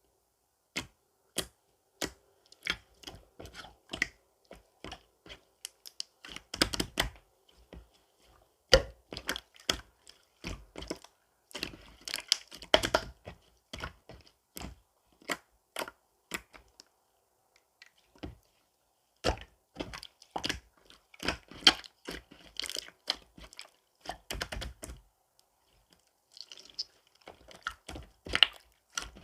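Irregular sharp clicks and taps, some single and some in quick clusters, with short silent gaps between.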